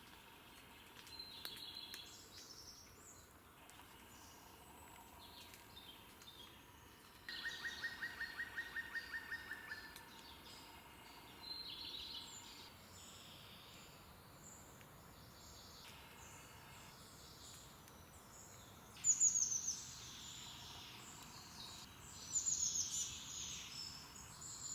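Wild birds singing in a pine forest: several scattered songs, with one trill of evenly repeated notes lasting about three seconds and two louder falling song phrases near the end.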